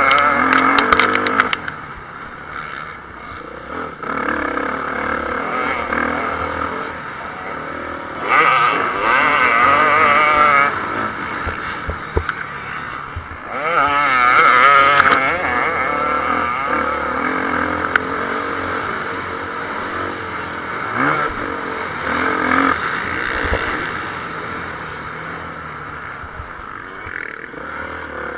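Several motocross motorcycles racing, their engines revving up and down through gear changes. Loud passes swell about a third of the way in and again around halfway, with fainter bikes running in between.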